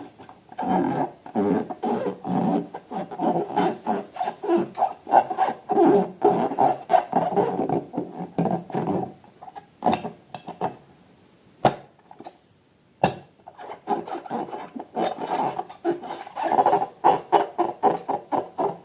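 Rubber balloons squeaking and rubbing as they are handled and squeezed, in a quick run of short squeaks. The squeaks pause for about two seconds in the middle, where there are two sharp clicks, then start again.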